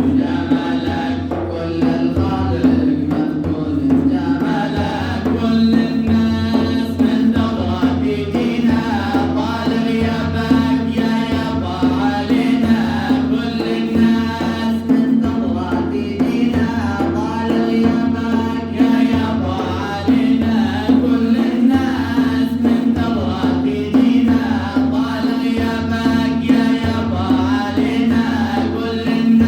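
Male voices singing an Arabic Sufi madih, a devotional praise song for the Prophet, in a chant-like melody over a steady low drone and a regular percussion beat.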